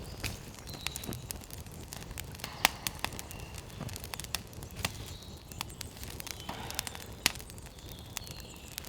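Freshly lit campfire crackling, with irregular sharp pops and snaps over a low hiss.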